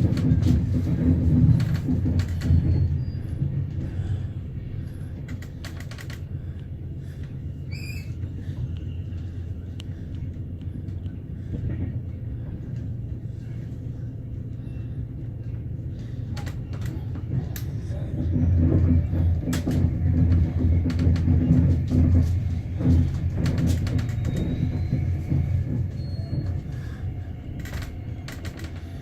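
Low rumble of a Swiss Intercity train running on the line, heard from inside the passenger coach, with faint clicks from the wheels and car body. The rumble swells louder in the first few seconds and again for several seconds past the middle.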